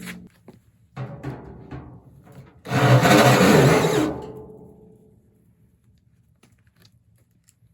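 Sheet-metal furnace ductwork drumming and ringing as it is worked into shape and screwed together: a short burst about a second in, then a louder burst of about a second and a half around three seconds in that rings away slowly.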